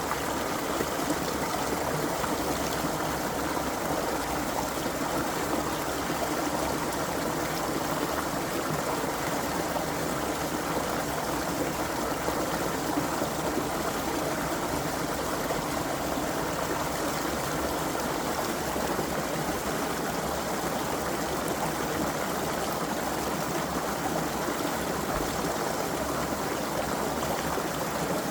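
A creek flowing, a steady, even rush of running water.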